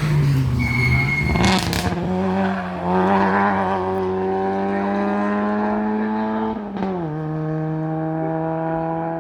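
Hill-climb race car engine pulling hard, its pitch climbing steadily through a gear, then dropping sharply about seven seconds in at an upshift. A short loud noisy burst comes about a second and a half in.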